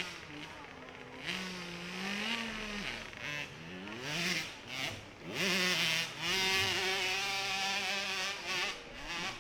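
KTM 65cc two-stroke dirt bike engine revving hard as it climbs a steep hill. The pitch rises and falls with the throttle, then climbs quickly and is held high and steady for about three seconds before dropping off near the end.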